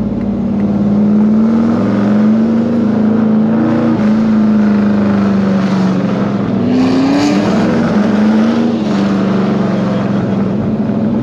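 1969 Chevelle SS's V8 engine running under way at light throttle, its note steady with a brief rise in revs about six and a half seconds in before settling back.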